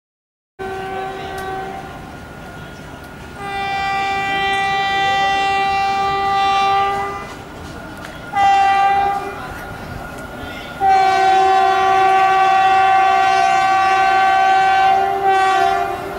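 Indian Railways locomotive horn sounding three blasts, long, short and long, over the steady noise of a passing train.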